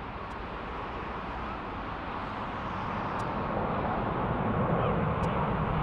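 Jet airliner's engines heard across the airfield, a steady rumble growing gradually louder.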